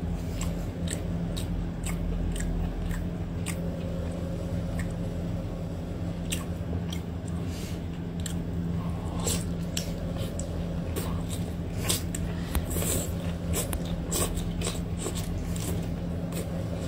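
Close-up biting and chewing of marinated octopus tentacles: wet mouth clicks and squelches at irregular intervals over a steady low hum.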